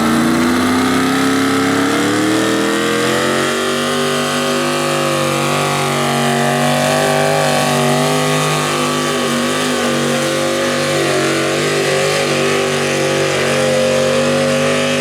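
Naturally aspirated small-block engine of a pulling tractor running at full throttle under the load of the weight sled. Its pitch climbs over the first couple of seconds, then holds high and steady with slight wavers.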